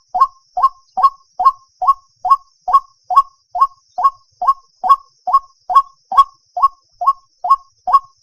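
White-breasted waterhen calling: a long, even run of short, hollow 'kwok' notes, about two and a half a second.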